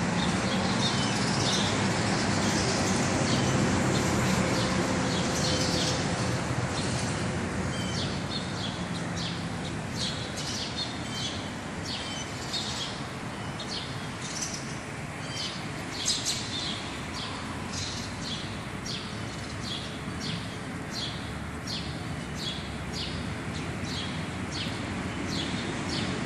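Small birds chirping over and over, with a steady low hum of distant traffic underneath.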